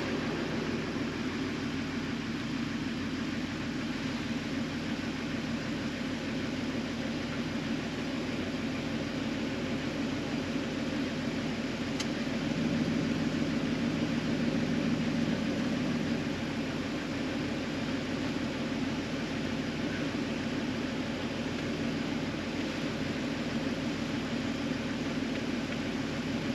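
An engine running steadily at low speed, an even drone that swells a little about halfway through.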